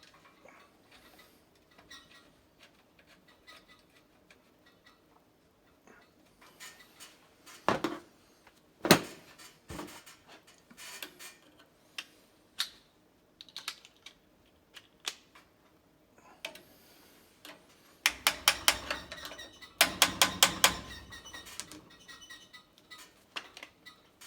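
Hand tools and metal parts clicking and knocking against a B&G Series 100 circulator pump as it is reassembled with its coupler. A few sharp knocks come about a third of the way in, and near the end there are two runs of rapid, evenly spaced clicks.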